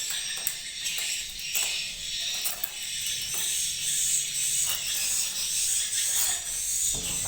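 Dense, steady high-pitched twittering of swiftlet calls filling the swiftlet house.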